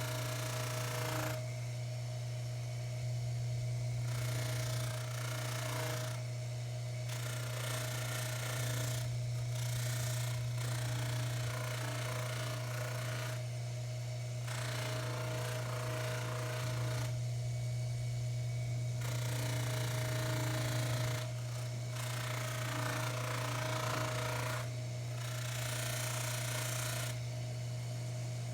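Baldor 353T dental lathe running steadily with a low hum while a pipe stem is buffed on its wheel with tripoli compound. The buffing adds a rushing noise that comes and goes in spells of a few seconds as the stem is pressed to the wheel and eased off.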